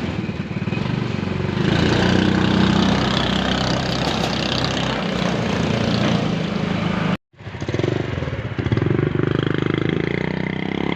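Small motorcycle engine powering a homemade truck, running steadily. The sound cuts out suddenly a little after the middle, then the engine is heard again at a slightly different pitch.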